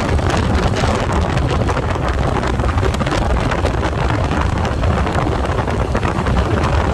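Heavy wind buffeting the microphone while riding a Can-Am Spyder three-wheeled motorcycle at speed, with the engine and road noise running steadily underneath.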